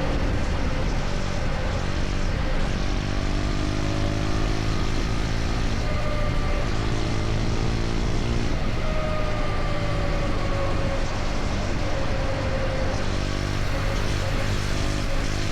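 KTM Duke 250's single-cylinder four-stroke engine running steadily at highway cruising speed, under heavy wind and road noise. Its pitch drifts slightly up and down, and other engine tones come and go a few times.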